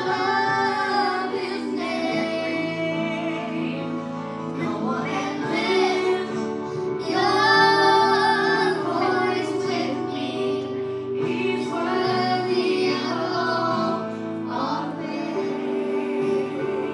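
A worship song sung by a female voice over steady instrumental backing.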